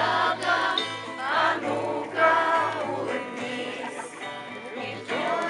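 Group of voices singing a song together in chorus.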